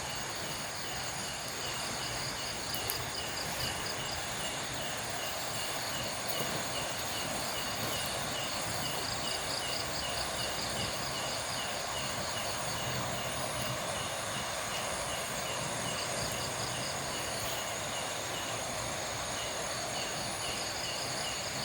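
Night insects calling: a steady high buzz, a short chirp repeating about twice a second, and stretches of faster trilling that come and go, over a steady background hiss.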